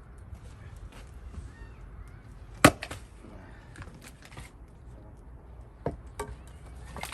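A Gränsfors Bruk axe strikes a cherry-wood round once, sharply, about two and a half seconds in, splitting firewood. A few lighter knocks of wood follow near the end.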